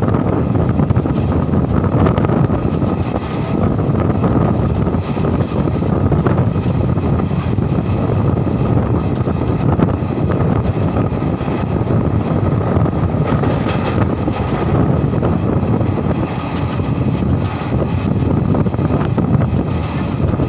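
Passenger train running along the track: a steady rumble and rush of noise with a faint steady whine above it, unbroken throughout.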